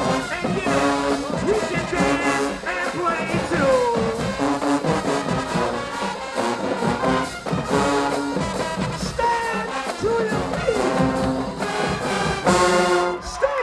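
High school marching band playing a brass-led tune over a driving drumline, with sliding brass notes; the music stops sharply just before the end.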